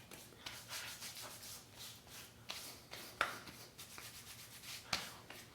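Hands rubbing a slippery gel aftershave balm into freshly shaved skin: faint, irregular rubbing strokes with a few soft sharp clicks, the loudest near the end.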